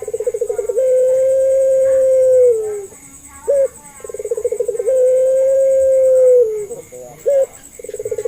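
Puter pelung, a long-cooing variety of domestic ringneck dove, giving its drawn-out coo. Each call is a short clipped note, then a fast stuttering roll, then one long steady note that drops away at the end. Two full calls are heard, and a third begins near the end.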